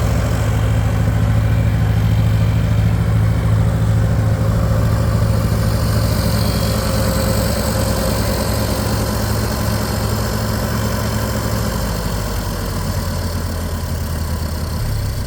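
Ferguson TO-20 tractor's four-cylinder gasoline engine idling steadily, its note shifting slightly a few seconds before the end.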